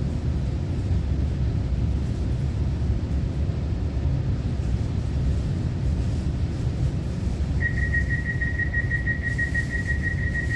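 Steady low rumble inside a Taiwan Railway EMU900 commuter train car. About three quarters of the way in, a high, rapidly pulsing warning tone starts and holds steady.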